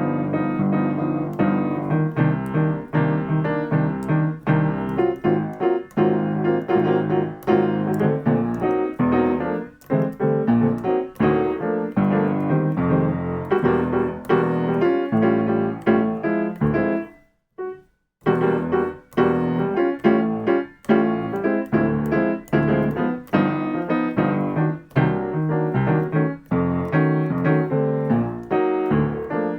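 Solo piano playing jazz comping patterns: chords struck again and again in a repeating accompaniment rhythm. The playing stops briefly about two-thirds of the way through, then carries on.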